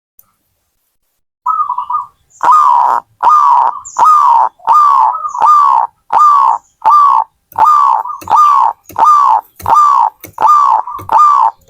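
Zebra dove (perkutut) cooing: a run of about a dozen short, evenly paced notes, each bending down in pitch, about three every two seconds. It starts about a second and a half in.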